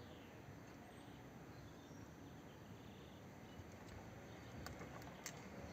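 Near silence: a low steady hiss of room tone, with a few faint clicks near the end.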